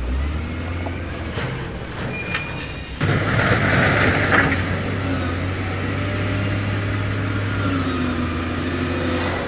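Heavy diesel earthmoving machinery running steadily; about three seconds in the engine note climbs and gets louder under load, with a brief rush of noise.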